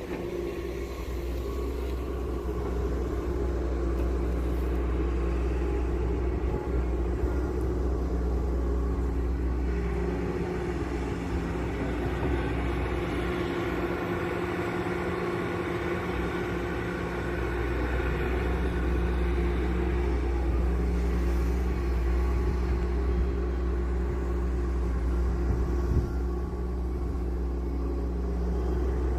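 Hydraulic excavator's diesel engine running steadily under working load, with a deep rumble. From about ten seconds in, the deepest rumble eases for several seconds while a higher engine note comes up, then the rumble returns.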